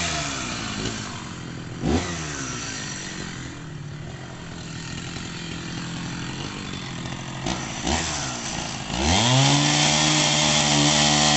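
Two-stroke chainsaw dropping back to a low, rough idle, with short throttle blips about two seconds in and near eight seconds. About nine seconds in it revs up to a steady high-speed whine and holds there.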